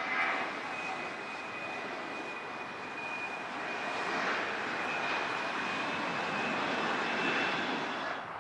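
Aircraft engine running: a steady rush with a thin high whine over it, growing a little louder in the middle.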